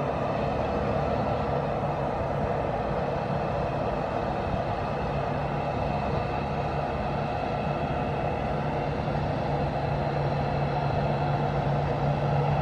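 Boeing 737-800's jet engines running steadily at idle ahead of takeoff: a low hum with a faint whine above it, growing a little louder near the end.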